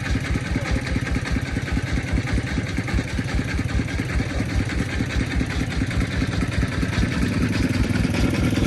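Single-cylinder diesel engine of a công nông farm vehicle chugging in a quick, even rhythm, getting louder near the end.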